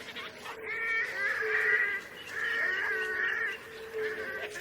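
Mosquitoes whining around little bittern chicks in the nest, with the chicks' thin, wavering calls loudest from about one to three and a half seconds in.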